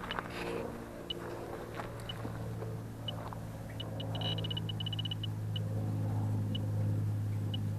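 Electronic refrigerant leak detector beeping in short high ticks, scattered at first and then speeding into a rapid run about four seconds in as it picks up refrigerant near the accumulator, before slowing again. Under it runs the steady hum of the running heat pump.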